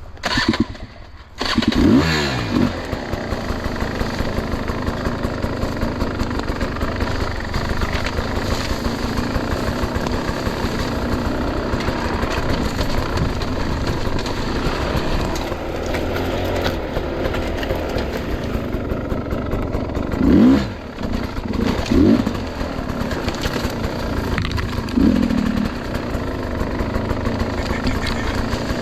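Enduro dirt bike engine running steadily with the throttle held low, blipped in a few sharp revs: one about two seconds in and a group of three in the second half.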